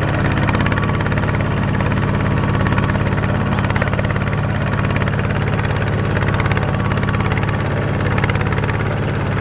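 Tractor diesel engine running steadily with an even chugging beat, its pitch and level holding constant.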